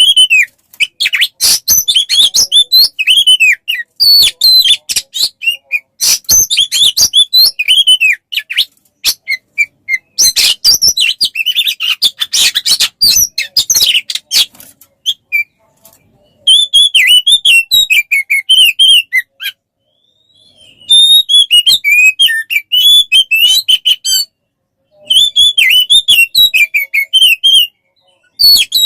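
Oriental magpie-robin (kacer) singing in rapid, varied phrases of sharp chattering notes and quick whistles, in runs of a few seconds broken by brief pauses.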